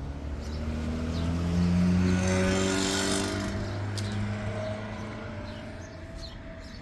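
A motor vehicle's engine, rising in pitch and growing louder to a peak about two seconds in, then fading away.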